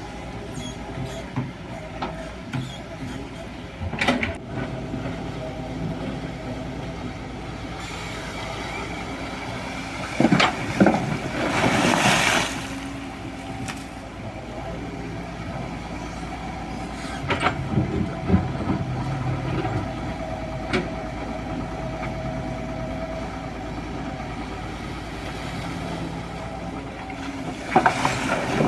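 Excavator's diesel engine running steadily while it digs in gravel. Knocks and scraping come at intervals, with a louder burst of clatter and rushing noise a little before halfway.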